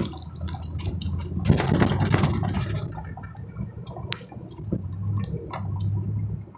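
1991 Ford F-150's 5.0 V8 running with a steady low drone while the tyres churn through slush and snow. A whooshing rush swells about a second and a half in, and scattered knocks and clatters come through the truck.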